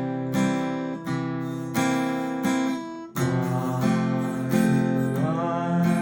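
Acoustic guitar strummed with a pick in a basic 3/4 waltz pattern, one beat bass and two strums, with chord strokes about every two-thirds of a second. The chord changes about halfway through.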